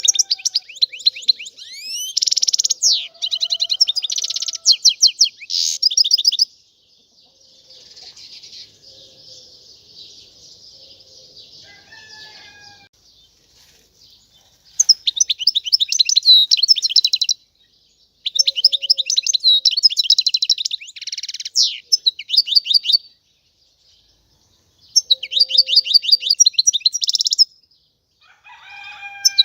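European goldfinch singing: phrases a few seconds long of rapid twittering trills and quick repeated notes, broken by short pauses, with softer, quieter twittering from about seven to fourteen seconds in.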